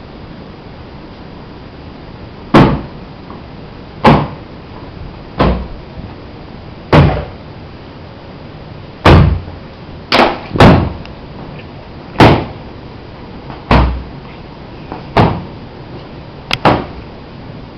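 A run of loud, sharp knocks, about a dozen, coming roughly once every second and a half, each dying away quickly, with two close together about ten seconds in.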